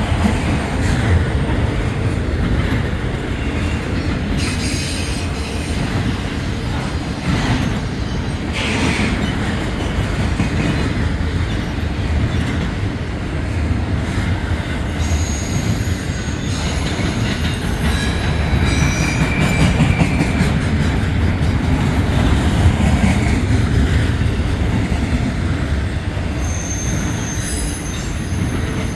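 Freight train cars rolling past, a steady low rumble with wheels clicking over rail joints. Thin, high wheel squeals come and go several times, most in the second half.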